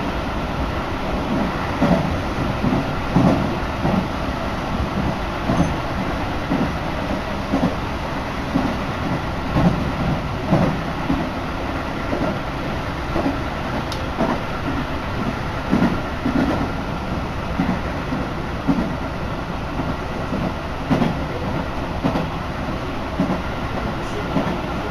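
Tobu Urban Park Line commuter train running at speed, heard from inside the carriage: a steady rumble with repeated clickety-clack thumps of the wheels over the rail joints, about once or twice a second.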